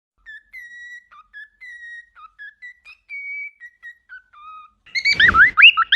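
A parrot whistling a tune in short, clear notes at different pitches. About five seconds in it breaks into loud, fast chirping whistles that swoop up and down, with a brief low rumble as they begin.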